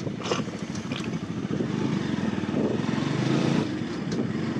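Bajaj Pulsar NS200's single-cylinder engine running as the motorcycle is ridden over rough, broken ground, with a few sharp knocks and rattles.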